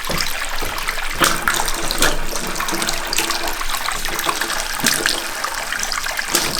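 Water running and splashing steadily, with scattered knocks and clatters of handling.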